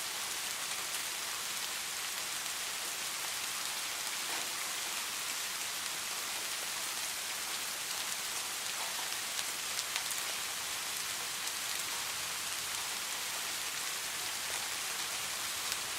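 Steady rain falling, an even hiss of many drops, with a few slightly louder taps near the middle.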